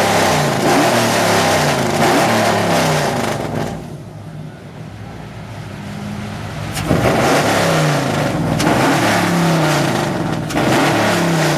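Car engine being revved in repeated throttle blips, its pitch rising and falling over and over. It drops back to a quieter idle about four seconds in, then is revved again from about seven seconds.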